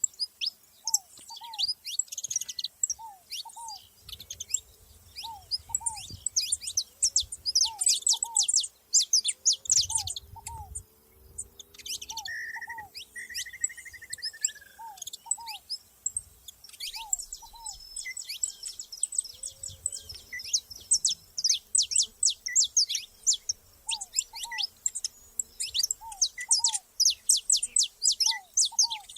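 Saffron finches chirping and singing in bursts of rapid high notes. Under them a second bird gives a low two-note call that repeats every second or two, and one longer falling whistle is heard about halfway through.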